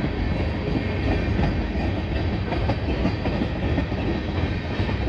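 Freight cars of a passing manifest train rolling by with a steady rumble and clacking wheels. Many of the wheels have flat spots.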